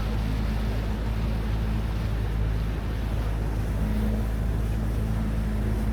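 Motorised river boat's engine running steadily, a low, even drone, with the rush of wind and water over it.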